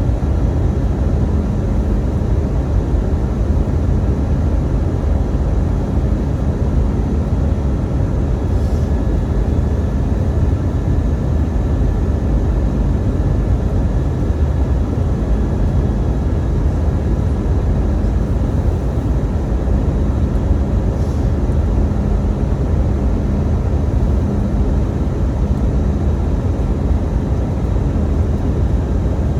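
Steady in-flight cabin noise of an Airbus A319: jet engines and airflow making a constant low drone with a faint steady hum, unchanging throughout.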